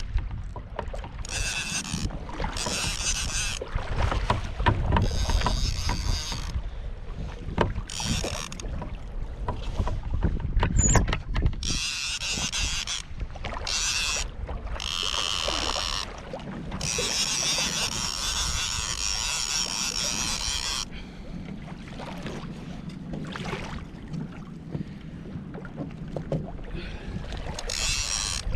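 Sea water sloshing and washing against a fishing kayak's hull in irregular surges, with a low rumble of wind on the microphone.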